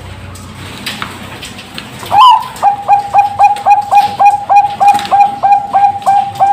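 Perkutut bangkok (Bangkok-type zebra dove) cooing. After a brief lull it gives a loud rising opening note, then a fast, even run of short coos at about three a second.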